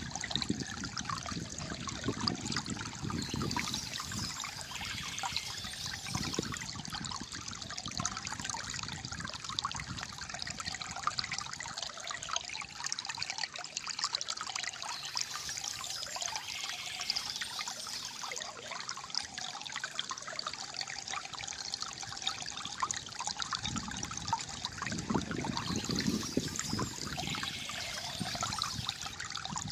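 Calm flowing water gurgling and trickling steadily, with low swells of rushing water now and then.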